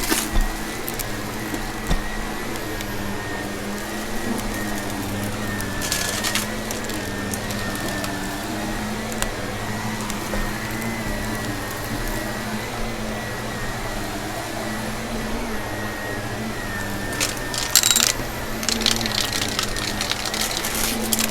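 Vacuum cleaner running steadily with a whine, with bursts of crackling as gritty debris is sucked up, about six seconds in and again near the end.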